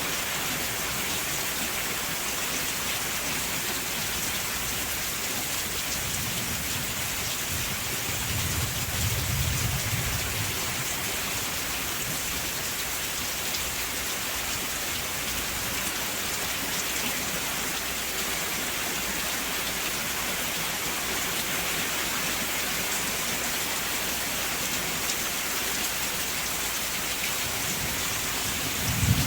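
Steady rain falling, an even hiss of many drops. A low rumble of thunder swells about six seconds in and fades by ten seconds.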